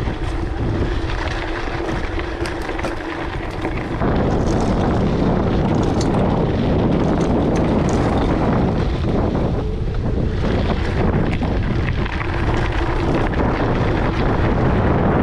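Wind buffeting the microphone of a camera carried on a moving mountain bike, a steady rushing rumble that grows louder about four seconds in.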